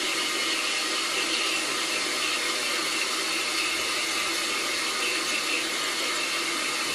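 Narrow-gauge steam locomotive letting off steam in a steady, loud hiss.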